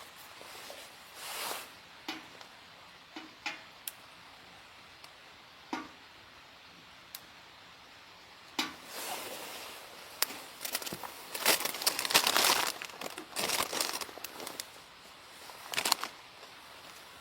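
Crinkling and rustling of material being handled, in short irregular bursts with a few sharp clicks. The longest, loudest run of crinkling comes a little past the middle, with another brief burst near the end.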